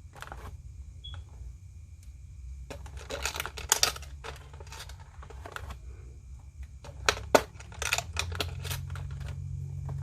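Plastic action-figure packaging and parts being handled: two bursts of crinkles and sharp clicks, about three seconds in and again about seven seconds in, over a steady low hum.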